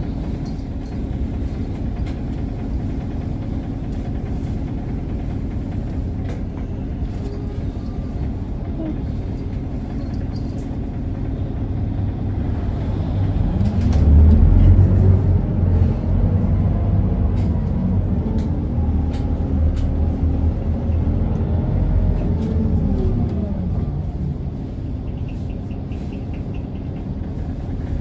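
Isuzu Erga city bus's diesel engine heard from inside the cabin. It runs with a steady low hum, then about halfway through it revs up as the bus pulls away. Its pitch rises and falls several times through the gear changes before settling.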